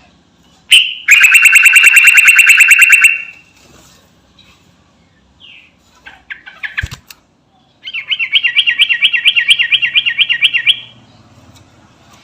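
Yellow-vented bulbul singing: two long, rapid trilling rolls of quickly repeated notes, each about three seconds long. A few short, sharp calls come before and between the rolls.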